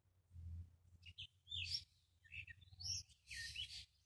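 A songbird singing in the trees: a quick series of high chirps and sliding whistled notes that starts about a second in, over a low rumble.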